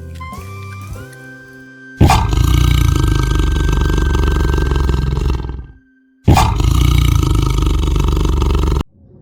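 Background music, then a tiger roaring twice: two long, loud roars, each starting abruptly, the first of about three and a half seconds, the second about a second after it.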